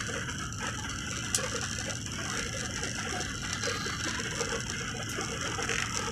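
Airliner cabin noise in flight: a steady rush of engine and airflow with a light, continuous rattling of cabin fittings, as in turbulent bad weather, and one sharp click about a second and a half in.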